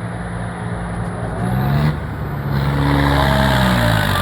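John Deere tractor's diesel engine working hard, revving up about a second and a half in and running louder from about two and a half seconds on, its pitch rising and falling.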